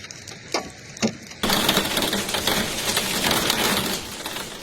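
Storm audio: a few sharp separate knocks, then about a second and a half in a sudden switch to the dense, even hiss of torrential rain, which eases near the end.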